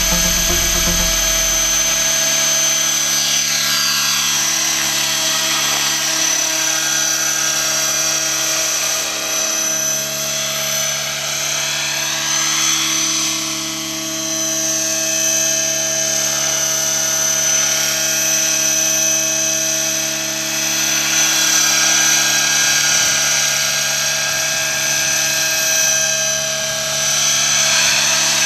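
Align T-Rex 600 radio-controlled helicopter running at flying speed: a steady high whine from the drive and gears over the chop of the main and tail rotors. The pitch sweeps up and down a little twice as it flies past.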